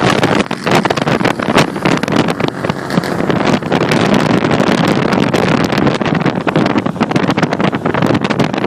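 Wind rushing and buffeting the microphone of a moving car, with a steady noise of the car driving at speed.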